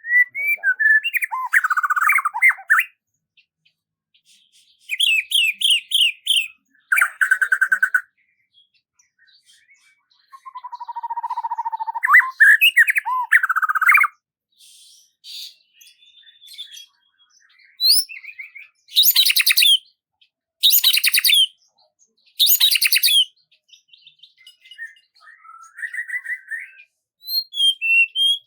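Songbirds singing in short, varied phrases (whistles, rapid trills and rising notes) separated by clean pauses. A run of three louder, harsher phrases comes about two-thirds of the way in.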